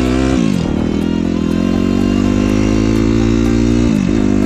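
Suzuki RM-Z250 250cc four-stroke single-cylinder motocross engine running under way. The engine note drops sharply about half a second in, holds steady, then dips and comes back up near the end.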